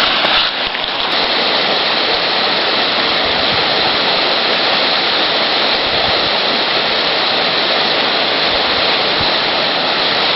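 River water rushing past close by: a steady, loud, unbroken rush.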